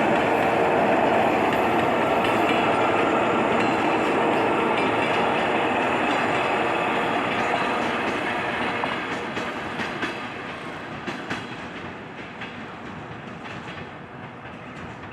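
Electric commuter train rolling into a station: loud wheel-on-rail rumble that fades over the second half as the train slows, with a scatter of sharp clicks from the wheels near the end.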